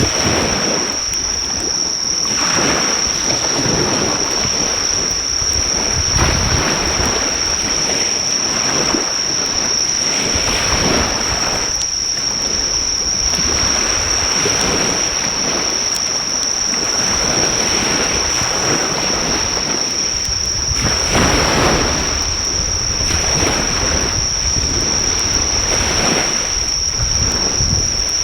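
Sea waves breaking on the shore in broad surges every few seconds, under a steady high-pitched insect trill, with a faint crackle from a driftwood fire now and then.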